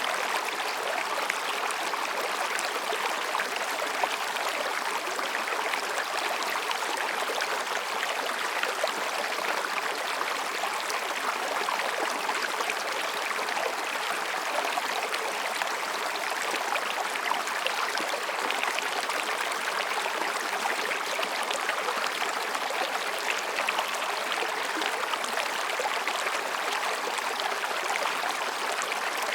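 Mountain stream babbling over and between rocks: a steady, even rush of flowing water with no break.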